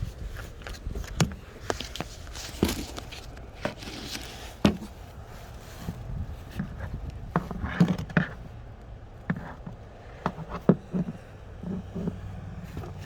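Irregular clicks, knocks and scrapes of hands at work in an open engine bay while the engine oil is checked, mixed with footsteps. Loudest knocks come around the middle and near the end.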